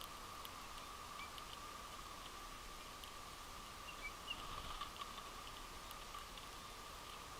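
Faint scattered ticks and clicks of winter finches feeding at a seed feeder, with a few brief soft chirps, over a steady background hum.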